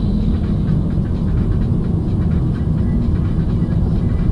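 Steady low rumble of a vehicle on the move, with road and wind noise on the microphone.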